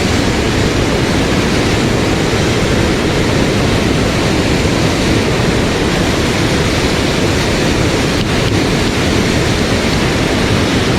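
Mountain stream rushing over rocks: a loud, steady roar of water that does not change.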